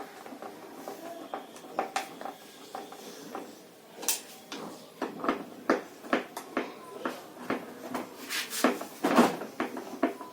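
Irregular knocks and clatter of tools and hard parts being handled while working on a top-load washing machine's mechanism. The knocks are sparse at first and come thicker and louder from about halfway through.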